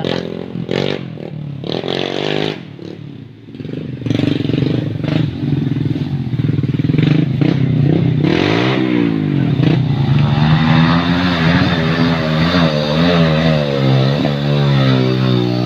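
Motorcycle engine running during warm-up, revved so its pitch rises and falls repeatedly. It dips briefly, then runs louder from about four seconds in.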